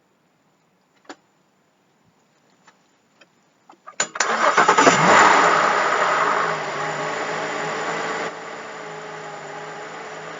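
A few small clicks, then a car engine is started about four seconds in: it catches, runs fast at first, and settles to a lower steady idle in two steps.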